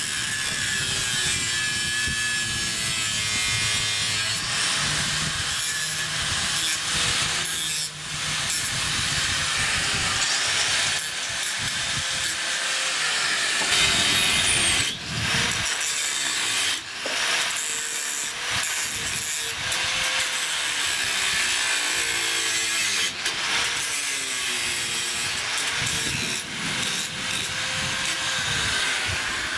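A power tool cutting continuously, a rasping sawing sound whose pitch wavers as it works.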